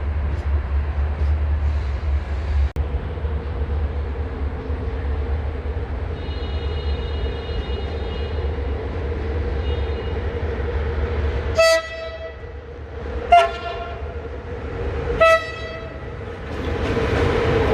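Train horn giving three short blasts over a steady low rumble from the rail yard. Near the end a broad rushing noise swells up as a train gets moving.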